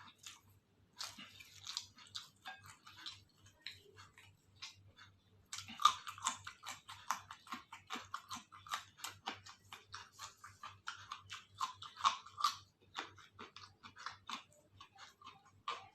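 A person chewing food close to the microphone: a dense run of short, wet mouth clicks and crunches. They are busiest from about a third of the way in until about three-quarters through.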